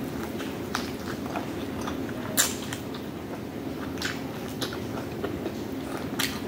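A person biting and chewing food close to the microphone, with scattered short clicks from the mouth, the sharpest about two and a half seconds in, over a steady low background hum.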